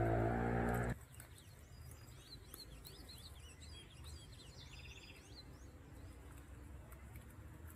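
Small birds chirping in a quick run of short calls over a faint outdoor background, starting about two seconds in. Before that, a loud steady droning tone cuts off abruptly about a second in.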